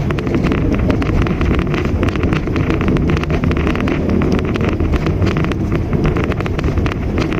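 Mitsubishi Mirage hatchback driving along at steady speed: a continuous low engine and road rumble, with wind buffeting the microphone.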